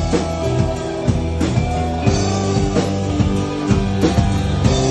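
Instrumental rock band passage: sustained guitar chords over bass and a drum kit keeping a steady beat, with no singing.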